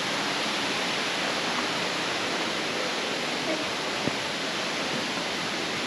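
Steady rush of flowing water from a small river, with one faint click about four seconds in.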